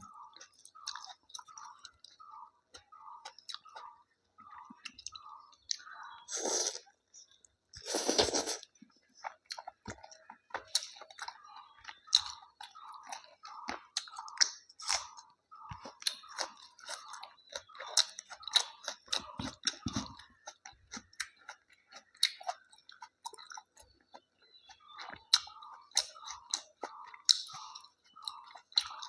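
Close-miked chewing and crunching of a meal of rice, chicken and salad, with a steady rhythm of about two chews a second and scattered wet clicks. Two louder, longer crunches come about six and eight seconds in.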